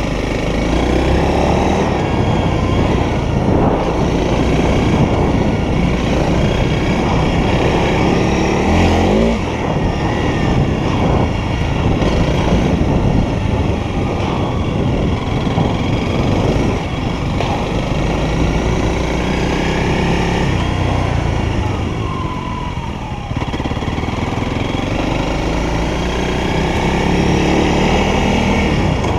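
Honda CRF300L's single-cylinder four-stroke engine heard from the rider's seat, revving up and easing off as the bike is ridden. The pitch rises repeatedly and drops sharply about nine seconds in, with a brief lull in level a little past two-thirds of the way through.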